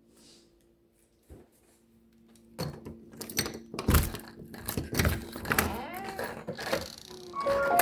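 Quiet room hum, then from a few seconds in a rapid run of knocks, thumps and clattering as objects are bumped and moved about. A few short clear tones sound near the end.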